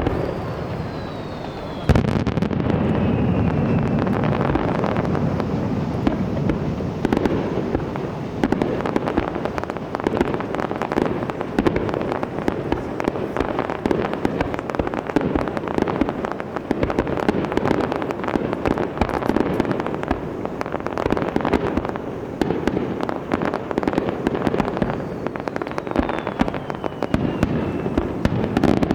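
Fireworks display: a dense, continuous run of aerial shell bangs and crackling bursts that kicks in suddenly about two seconds in, with a short falling whistle near the start and again near the end.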